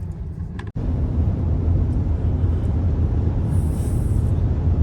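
Steady low rumble of a car driving, broken by a brief cut just under a second in.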